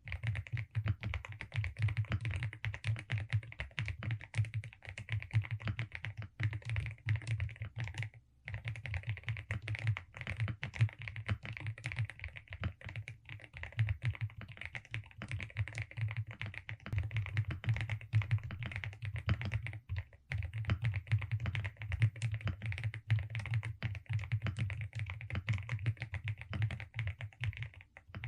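Steady fast typing on a Velocifire RX870 mechanical keyboard with DSA keycaps: dense key clacks, pausing briefly about eight seconds in and again about twenty seconds in.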